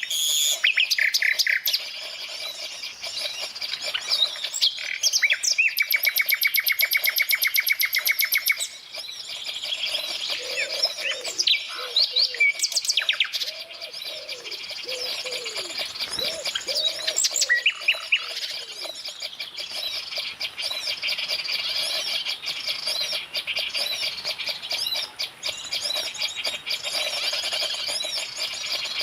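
Several birds chirping and calling over one another, with a fast rattling trill from about five to eight seconds in and some lower, swooping calls in the middle.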